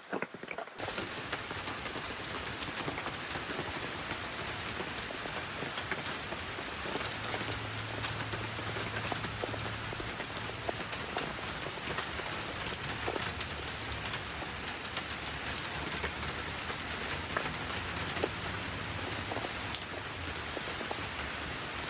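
Steady rainfall, with many individual drops ticking on a surface.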